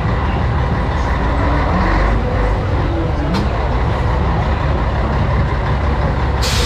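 Scania 113H truck's diesel engine running steadily with a deep, pulsing exhaust note. A sudden burst of compressed-air hiss starts near the end.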